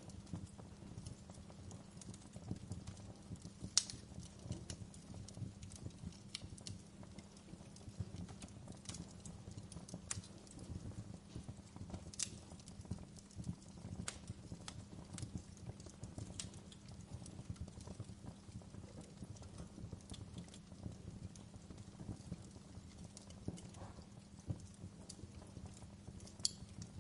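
Wood fire burning low in a fireplace: irregular crackles and small pops over a low steady rumble. Sharper pops stand out about four seconds in, around twelve seconds in and near the end.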